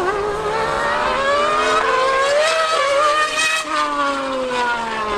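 High-revving racing engines (the F1 car and the Yamaha R1M superbike) accelerating flat out in a drag race. Their pitch climbs for about three and a half seconds, then drops as they pass.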